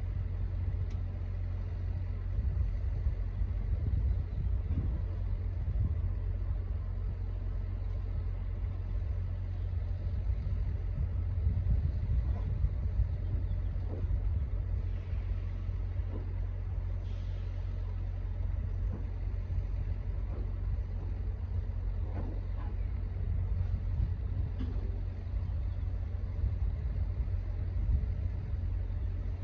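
Steady low rumble of a semi truck running, with a few faint knocks here and there.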